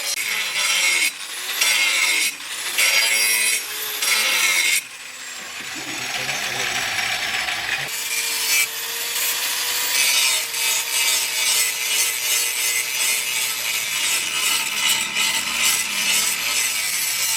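Hand tool scraping across wood in repeated strokes: loud separate strokes at first, then after a quieter spell a quick, even run of strokes.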